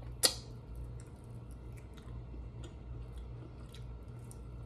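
Mouth sounds of a person eating chicken wings: a sharp smack of lips sucking sauce off the fingers about a quarter second in, then soft chewing with faint small clicks.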